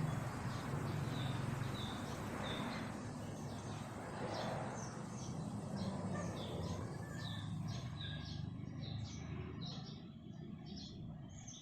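Small birds chirping, many short repeated calls that grow denser toward the end, over a low steady rumble that fades out about nine seconds in.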